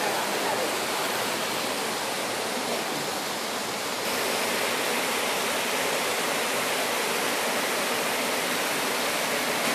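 Heavy rain falling in a downpour: a dense, steady hiss of water, a little louder from about four seconds in.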